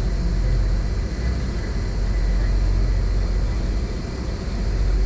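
Ferry running: a steady low engine rumble with a rushing haze over it.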